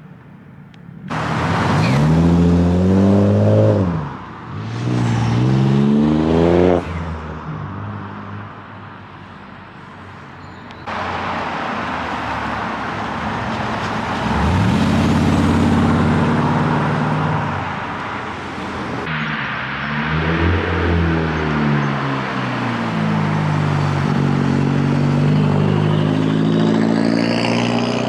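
Several modified car engines revving up in turn as the cars accelerate away, each rev rising sharply in pitch and dropping back. The sound cuts abruptly from one car to the next a few times.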